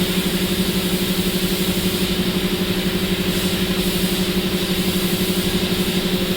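A motor or engine running steadily with a rapid, even pulse of about seven beats a second and a low hum.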